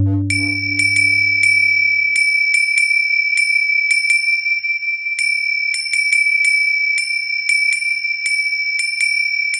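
Rain handler's metal bowl ringing in one steady high tone, with quick light taps on it at an uneven pace, about two a second.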